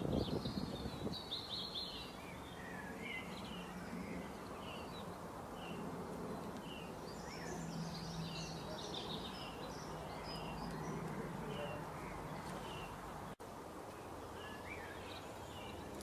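Songbirds chirping in many short, quick calls, over a low steady hum. The sound drops out for a split second about two thirds of the way through.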